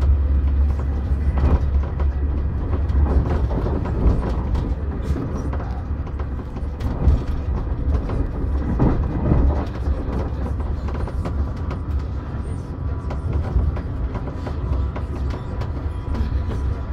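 Passenger train running at speed, heard from inside the carriage: a steady low rumble with scattered light clicks from the wheels and track.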